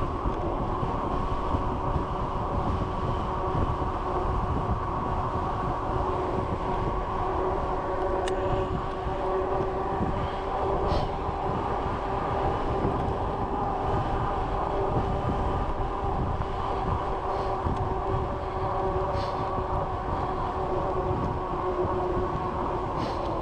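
Steady riding noise from a bicycle: tyres rolling on the road with a continuous hum of several steady tones, and wind rumbling on the GoPro microphone, with a few faint ticks.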